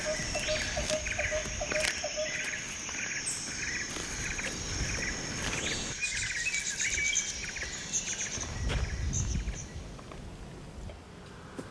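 Outdoor ambience of insects and birds: a steady high insect drone with repeated chirping bird trills. The drone and chirps thin out after about eight seconds, with a brief low rumble around then.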